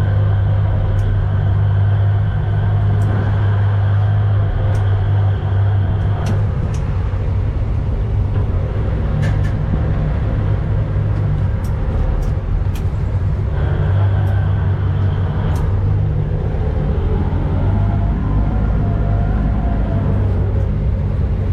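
Service boat's engine running steadily underway: a loud, even, low drone with a few faint clicks over it.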